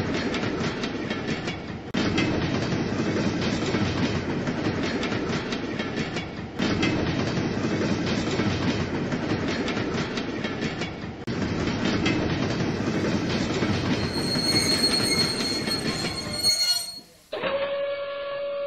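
Train running noise, rolling and rattling, with abrupt changes every few seconds. Then a high-pitched squeal for about three seconds, and a steady horn note begins near the end.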